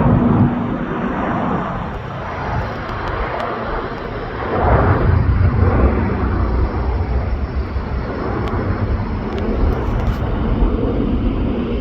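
Jet airliner's engine noise: a continuous rush with a heavy low rumble that swells about five seconds in.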